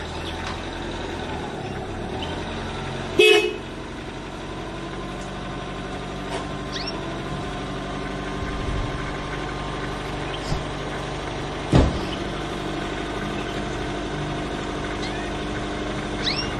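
Steady low engine hum, with a short horn-like toot about three seconds in and a sharp knock near the twelve-second mark. A few faint high chirps are heard now and then.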